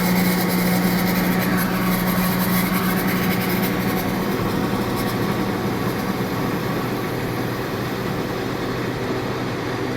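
A machine running steadily, with a strong low hum that fades out about four to five seconds in while the mechanical running noise continues.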